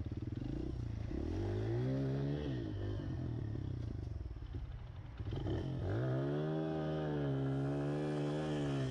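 Pit bike engine revving with the rear wheel spinning without grip. The revs rise and fall about a second in, drop back, then climb again about five seconds in and are held high.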